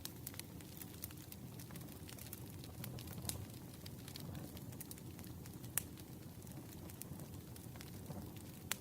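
Campfire burning: a steady low rustle of flames with scattered sharp crackles and pops of the wood, one louder pop a little past the middle and another near the end.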